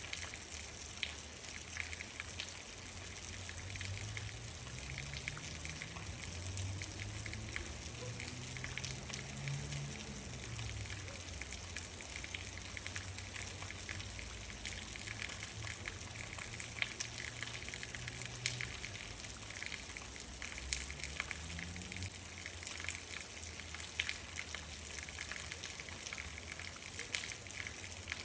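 Steady rain falling, with many separate drop hits clicking through it. A low rumble swells and fades in the background during the first half, and briefly again later.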